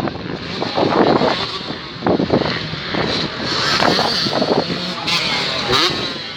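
Motocross bikes' engines revving and running at race speed, their pitch rising and falling.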